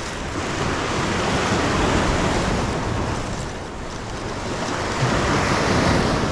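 Sea waves surging and breaking on the shore, swelling louder twice, with wind buffeting the microphone.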